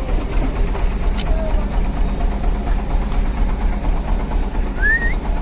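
Heavy truck's diesel engine running with a steady, pulsing low rumble. A sharp click comes about a second in, and a short rising chirp near the end.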